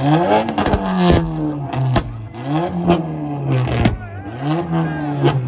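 Car engine revved up against a two-step launch-control rev limiter, climbing and holding at the limiter in repeated bursts about every two seconds, with sharp exhaust pops and bangs.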